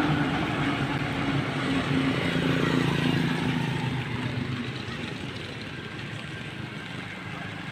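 A motor vehicle's engine running, fading away over the first few seconds as it moves off, with a steady hiss of noise underneath.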